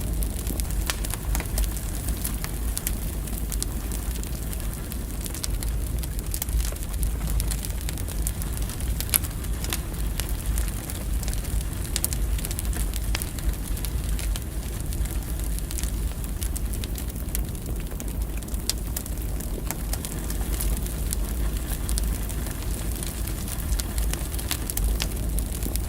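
Firewood burning in a fireplace: a steady low rumble of the flames with frequent sharp crackles and pops scattered throughout.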